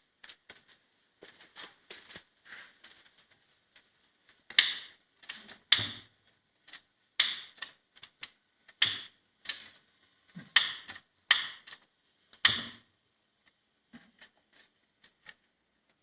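Paper and kindling being handled in the firebox of a fireplace insert as the fire is laid: irregular sharp rustles and crackles, about a dozen loud ones, with a few light knocks.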